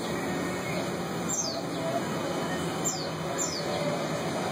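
A bird chirping: short high calls that each drop quickly in pitch, one about a second and a half in and two close together near three seconds, over a steady background hiss.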